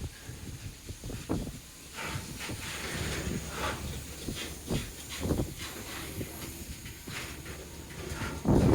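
Coal train rolling slowly along the rails, with a steady hiss and irregular clanks and knocks from the cars, and a louder low thump or rumble near the end.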